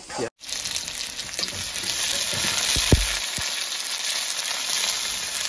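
Sliced onions and green chillies frying in hot oil in a black kadai, a steady sizzle as they are stirred with a steel ladle. A dull knock sounds about three seconds in.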